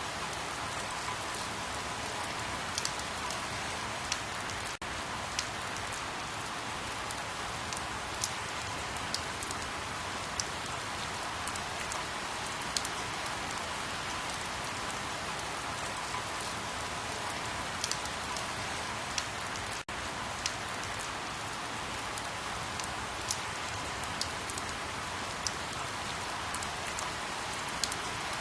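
Steady rain falling, an even hiss with individual drops ticking sharply at irregular moments about every second. The sound cuts out for an instant twice.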